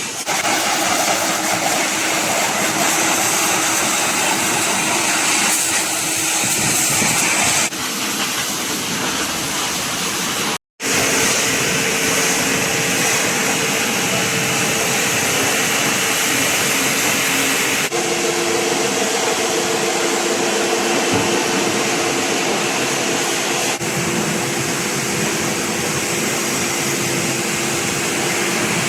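Car-wash pressure washer jetting water onto a Toyota Hilux pickup, a steady hiss of spray over the pump's even hum. The sound drops out for a moment about ten seconds in, and shifts slightly a few times.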